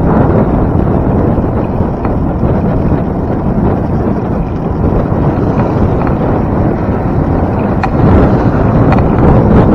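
Wind rushing over the microphone of a camera carried on a moving bicycle: a steady, loud rumble, getting a little louder about eight seconds in.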